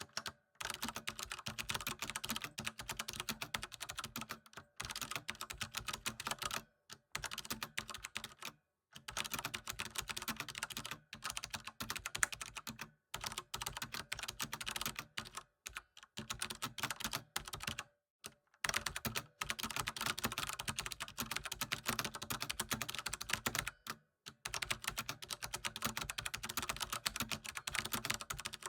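Computer keyboard typing: fast, continuous key clicks in runs of a few seconds, with brief pauses between runs.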